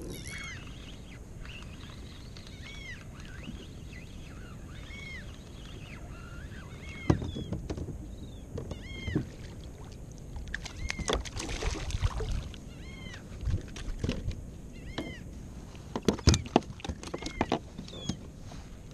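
Short arched animal calls repeating again and again over a steady wash of water noise. From about seven seconds in, sharp knocks and clatter on the kayak break in, loudest around seven, twelve and sixteen seconds.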